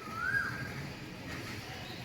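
Asian koel (koyal) calling: one clear whistled note that rises and then holds, in the first half-second or so.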